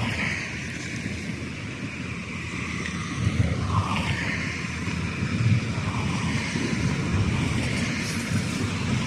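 Low, steady rumble of passing river cargo ships' diesel engines, with wind buffeting the microphone.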